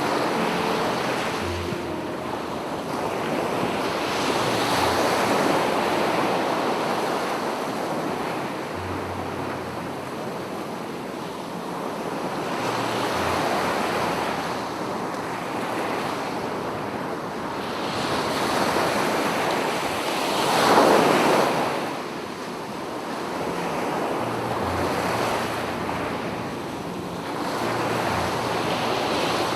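Sea surf breaking and washing up the shore, swelling and fading every few seconds, with the loudest breaker about 21 seconds in.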